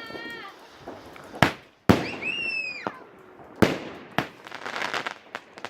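Fireworks going off: a string of sharp bangs and crackles, the loudest about two seconds in, with a brief high whistle falling in pitch just after it.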